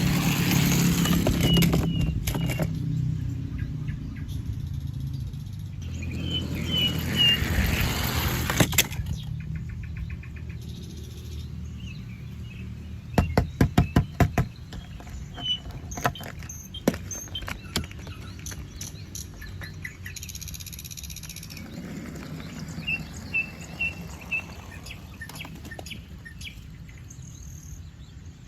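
Small birds chirping in short runs of three or four high notes, over the rush and rumble of passing traffic. About 13 seconds in there is a quick run of sharp clicks.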